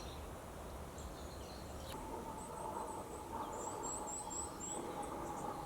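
Small bird singing a run of high, thin repeated notes, about five in quick succession, over a faint steady hum.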